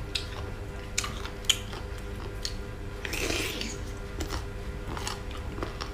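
Close-miked chewing and biting of raw sour mango slices dipped in sambal, with a few sharp crunches and a longer crunching bite near the middle.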